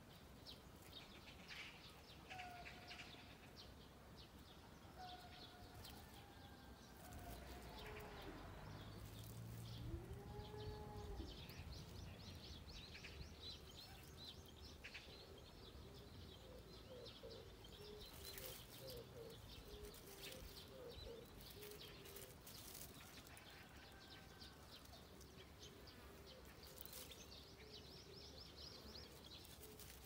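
Faint outdoor quiet with scattered distant bird calls, short rising-and-falling notes now and then, and a low rumble about a third of the way in.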